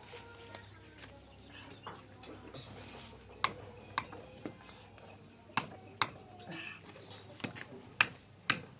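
Scattered sharp knocks and taps at irregular intervals, with faint children's voices in the background.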